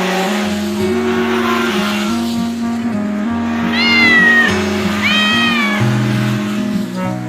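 Background music with a steady bass line, and a cartoon kitten meowing twice, about four and five seconds in, each meow arching up and falling away. A rushing noise fades out over the first two seconds.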